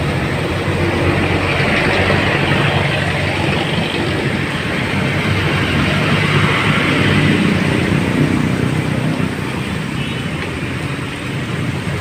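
Steady vehicle noise: a low running rumble under a constant hiss, easing slightly near the end.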